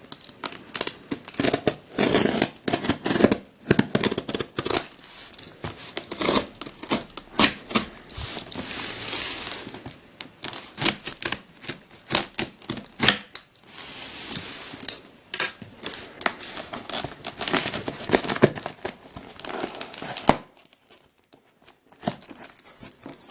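A large parcel being opened by hand: packaging tearing, crumpling and rustling, with many sharp clicks and knocks. The handling stops about twenty seconds in.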